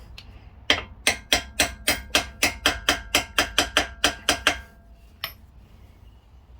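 A hammer tapping on metal brake parts: about fifteen quick, ringing taps at roughly four a second, then one last tap a moment later, driving a part that is not yet fully seated.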